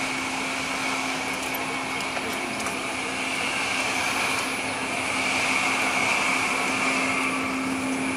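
Steady mechanical drone from a Bangladesh Railway intercity passenger train, with a low hum and a high whine running through it, swelling slightly about halfway through.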